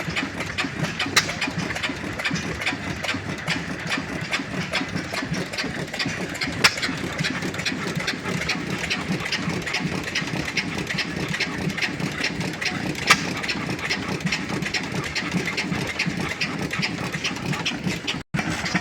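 Old gas engines running together with a dense, irregular clatter of firing, with three sharper knocks standing out, about one, six and a half, and thirteen seconds in.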